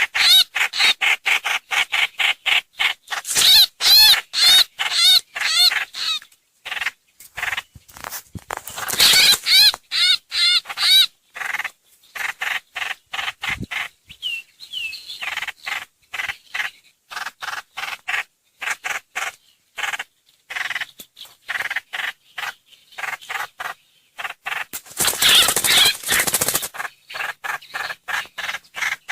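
Recorded songbird calls played as a trapping lure: fast, repeated chirping notes with louder trilled bursts near the start, about ten seconds in, and again near the end.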